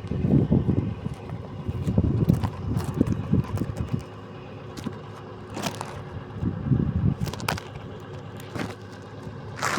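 Excavator's diesel engine running steadily, swelling louder in several low rumbling bursts, with a few sharp knocks, the loudest near the end.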